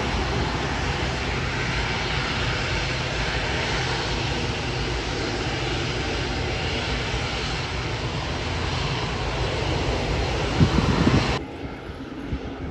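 Airliner's engines running loud and steady as the plane passes close by, with a few low thumps just before the sound cuts off abruptly near the end.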